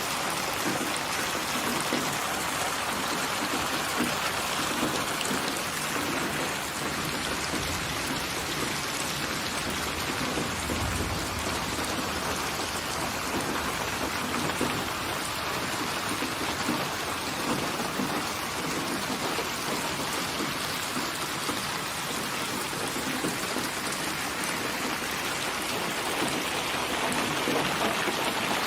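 Steady rainfall, an even hiss of drops falling on surfaces, with a brief low rumble about eleven seconds in.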